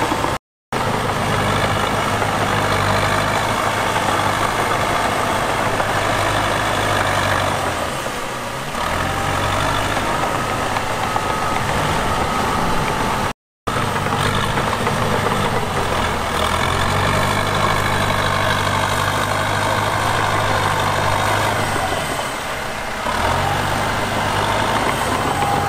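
Diesel engine of heavy earthmoving equipment running steadily at work, its note easing off briefly twice. The sound cuts out completely for a moment twice.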